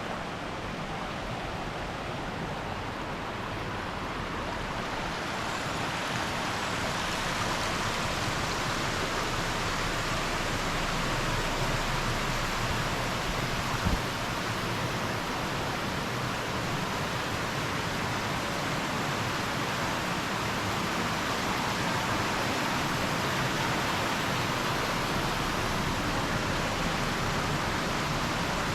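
Steady rush of flowing water, growing slightly louder over the first several seconds, with a single sharp click about 14 seconds in.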